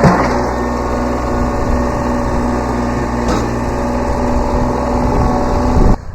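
Kubota B7100 tractor's three-cylinder diesel engine running steadily at working speed, with a sharp knock right at the start and a lighter one about three seconds in. The engine sound cuts off abruptly near the end.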